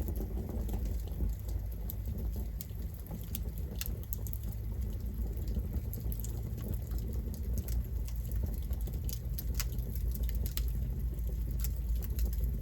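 Campfire burning: a steady low rush of the flames with frequent small crackles and pops from the burning wood.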